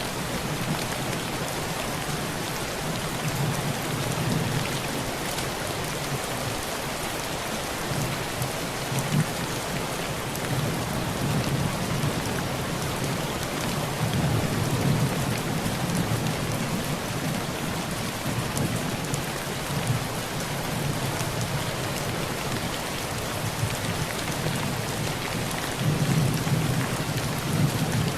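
Heavy rain pelting a tin roof: a steady hiss with sharp drop ticks. Low thunder rumbles swell and fade several times beneath it.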